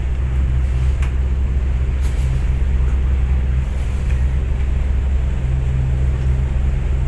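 Steady low drone of a high-speed passenger ferry's engines under way.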